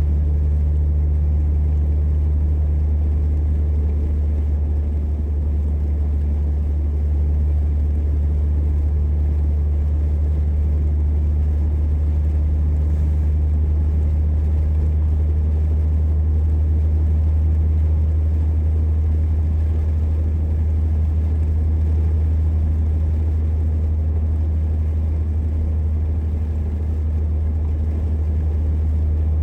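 Steady low drone of a car driving, heard from inside the cabin: engine and road noise with no change in pace.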